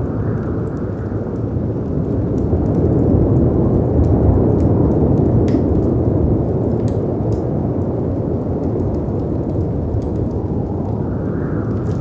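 Layered storm ambience: a steady deep roar of wind and sea surf, swelling slightly about three to five seconds in, with sparse sharp crackles and pops from a wood fire over it.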